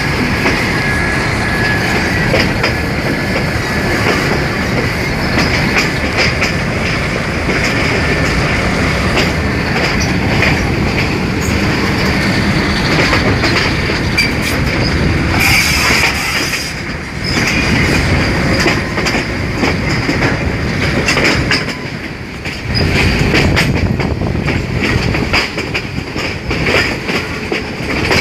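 Train running along the track: the wheels clack steadily over the rail joints, with some wheel squeal, over a continuous rolling rumble.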